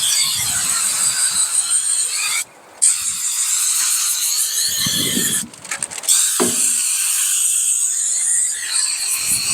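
Turbo Can aerosol spray can hissing as paint is sprayed in long bursts, cutting off sharply twice. Gusts of wind rumble on the microphone now and then.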